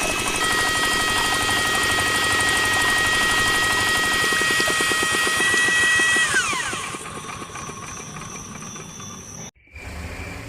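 Small electric motor of a homemade miniature machine running with a steady high whine, then switched off about six seconds in, its pitch falling as it winds down to a lower hum. A brief dropout near the end.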